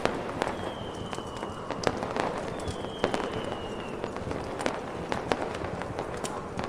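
Layered fireworks and fireplace ambience: scattered sharp pops and crackles over a steady, wind-like snowstorm noise. Two thin, slightly falling firework whistles sound, each about a second long, the first near the start and the second around three seconds in.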